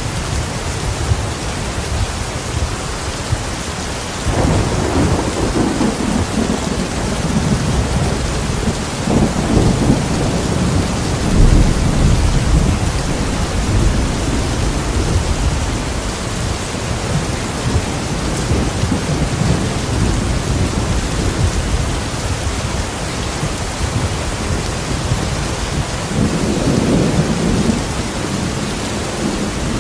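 Steady heavy rain with thunder: a long low rumble builds about four seconds in and rolls on for several seconds, and a shorter rumble comes near the end.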